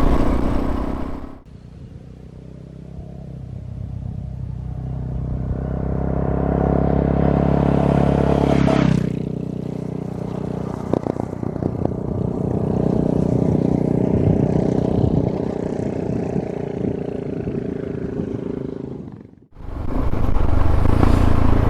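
Suzuki DR650's single-cylinder engine running as the bike rides along, growing louder over several seconds, with sudden changes in its sound and a few sharp ticks. Near the end the sound drops out briefly, then the engine is loud again.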